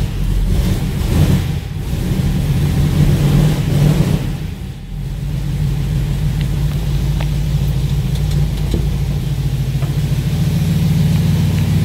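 1955 Studebaker truck engine just fired up from cold after two weeks unused, revving unevenly for the first few seconds, dipping briefly, then settling into a steady idle.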